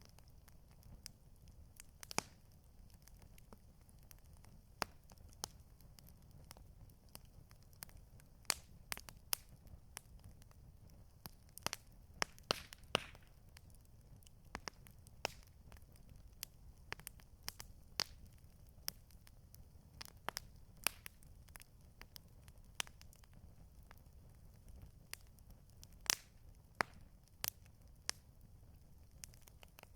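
Campfire crackling: irregular sharp pops and snaps of burning wood, several a second, over a faint low rumble.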